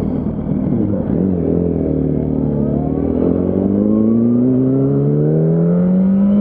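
Yamaha R1's inline-four engine under way, its pitch rising slowly and steadily through the second half as the bike accelerates.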